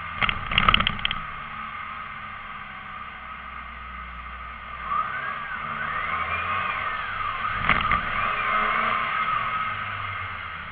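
Alfa Romeo Giulietta engine running steadily with a low hum, a few sharp clicks about half a second in and again near the middle. Over the hum, a tone rises and falls in arches for a few seconds in the middle.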